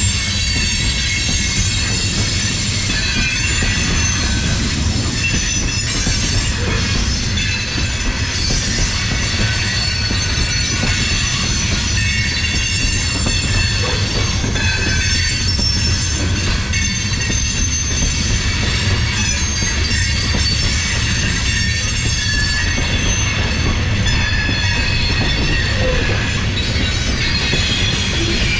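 CSX coal train's open-top hopper cars rolling past close by: a steady low rumble of steel wheels on rail, with high-pitched wheel squeal ringing over it and growing stronger and weaker at times.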